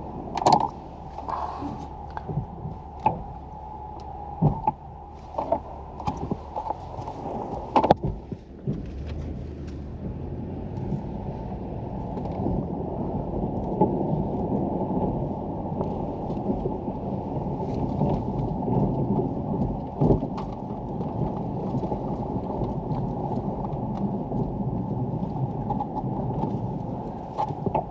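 Strong wind buffeting the microphone with a steady low rumble, after about eight seconds of handling knocks and clunks.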